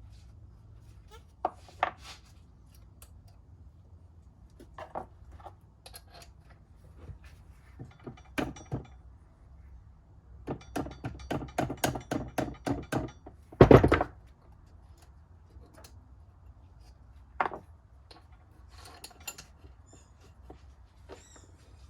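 Metal tools and differential parts being handled on a workbench: scattered clinks and knocks, a quick run of about ten clicks around the middle, then one heavy thunk, the loudest sound.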